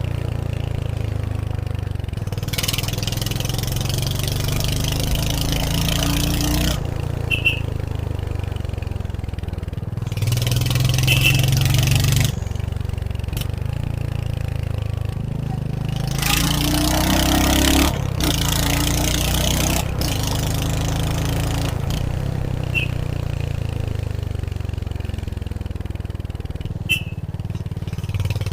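Royal Enfield Hunter 350's single-cylinder engine running on the move, its pitch rising and falling several times with throttle and gear changes, with stretches of rushing wind and road noise as it picks up speed.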